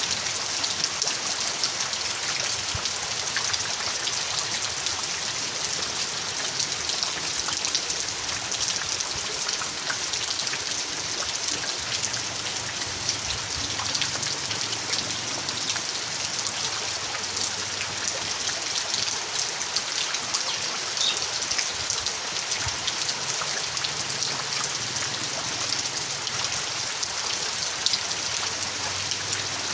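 Steady heavy rain falling, a dense hiss full of fine drop patters hitting surfaces.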